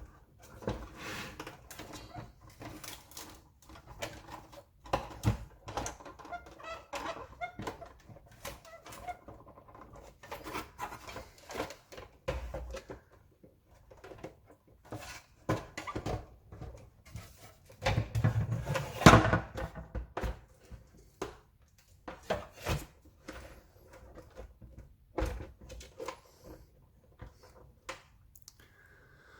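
Plastic casing and motor assembly of a Dyson DC39 barrel vacuum cleaner being pulled apart by hand: irregular clicks, knocks and short creaks and squeaks of plastic parts, with a louder spell of creaking and rattling a little past the middle.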